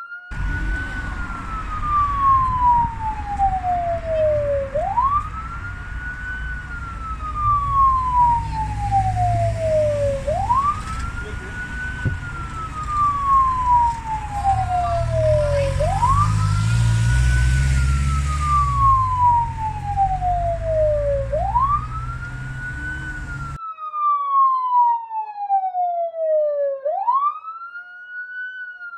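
Police siren sounding a wail. Each cycle climbs quickly to its top pitch and then falls slowly, repeating about every five and a half seconds over a low rumble. Near the end the rumble cuts off suddenly and the siren carries on alone, clean.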